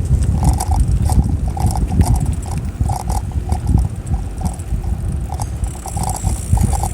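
Wind rumbling on the microphone and road noise during a bicycle ride, with scattered light rattles.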